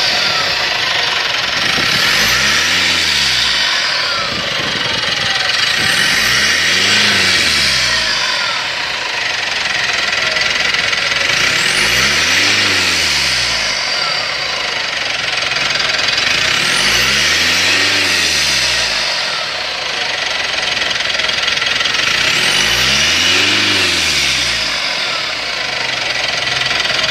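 Mitsubishi Pajero turbocharged engine revved up and let fall back five times. As the revs drop each time, a thin whistle glides down in pitch: the strange turbo noise that appears on deceleration.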